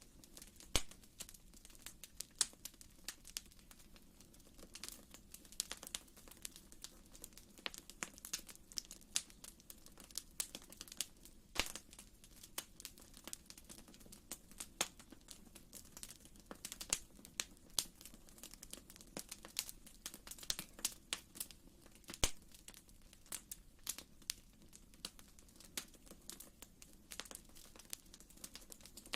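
Wood fire crackling in a fireplace: faint, irregular pops and snaps over a low steady background.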